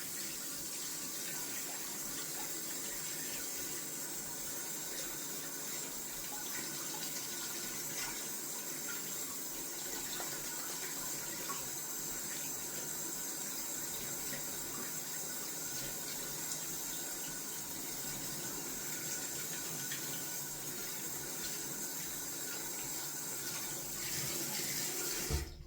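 Bathroom tap running steadily into a sink while a shaving brush is rinsed out under it; the water stops abruptly near the end.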